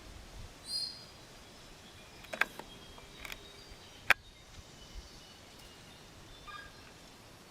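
Forest birds calling. One bird gives a short, high chirp about a second in, and faint thin notes follow later. In the middle come a few sharp clicks, the loudest about four seconds in.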